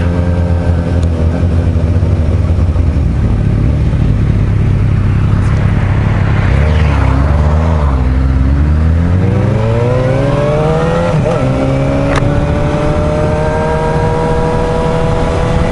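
Suzuki GSR750 inline-four motorcycle engine running steadily, then its pitch dips and climbs steadily as the bike pulls away and accelerates, with wind noise partway through.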